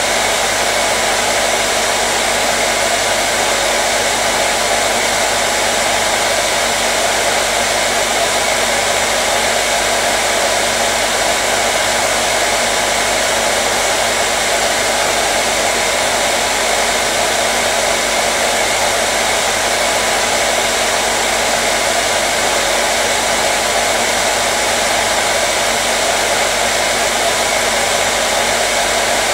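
Hair dryer running steadily: a continuous, even blowing rush with a faint steady hum, unchanging throughout.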